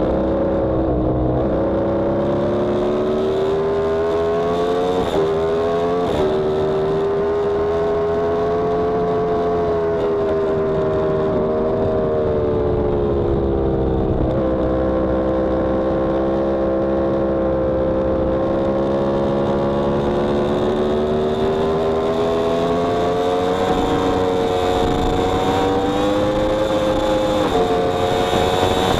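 Yamaha R1M's crossplane inline-four engine under track riding, its note rising and falling slowly through the corners, with a few quick steps in pitch at gear changes about five to six seconds in, midway and near the end.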